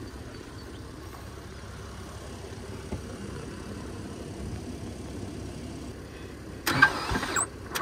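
A low steady rumble, then near the end a Ford Fusion's four-cylinder engine is suddenly turned over, loud and uneven. The engine runs on PL Premium construction adhesive in place of oil and is worn out, with no life left in it.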